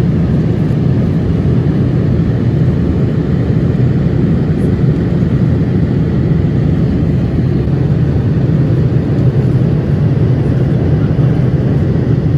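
Steady low roar of engine and airflow noise inside a Boeing 787-8 airliner cabin in flight.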